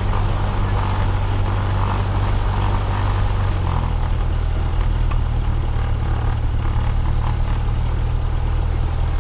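Cessna 172R's four-cylinder Lycoming piston engine and propeller idling steadily just after start-up, the engine note stepping up slightly about four seconds in.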